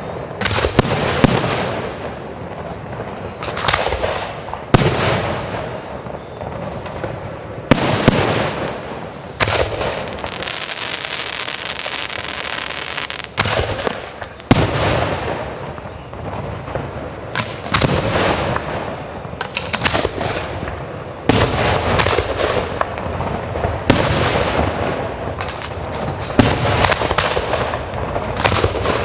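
Aerial fireworks display: shells bursting one after another every second or two, each a sharp bang that dies away in echo. A stretch of dense crackling comes about ten seconds in.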